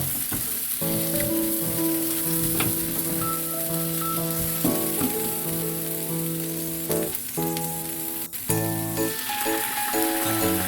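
Food sizzling as it stir-fries in a frying pan, over background music.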